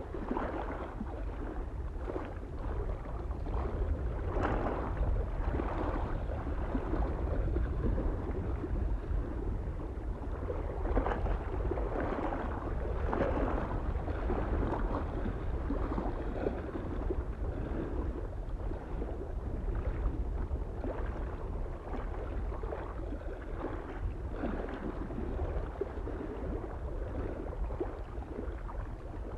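Small waves lapping and splashing against a lake shore, irregular swells every second or two, over a steady low rumble of wind.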